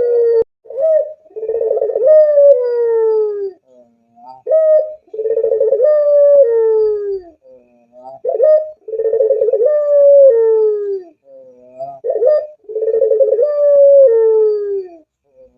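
A puter dove (domestic ringed turtle dove) cooing: each phrase is a short note followed by a long, rolling coo that slides down in pitch, repeated four times about every four seconds.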